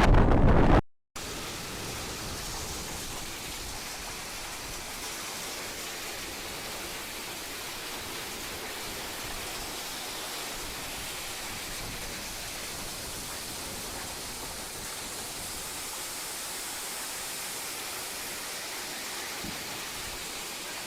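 Steady rain hiss. It follows a brief loud burst of wind buffeting the microphone that cuts off abruptly about a second in.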